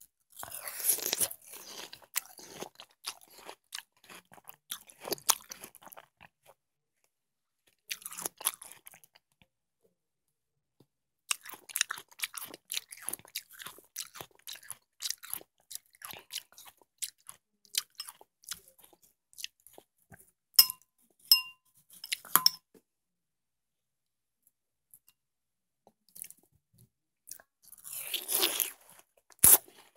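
Close-miked eating of watermelon: crisp crunching bites, one near the start, one about eight seconds in and one near the end, each followed by a run of short crunchy chewing sounds, with brief silent pauses between.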